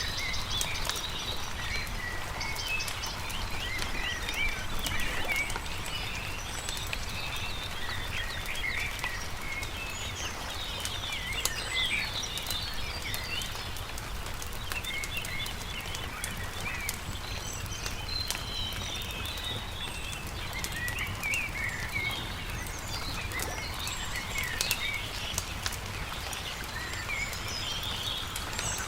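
Many small birds chirping and singing in short, overlapping calls, with the scattered light pops and crackles of a wood campfire over a low, steady rumble.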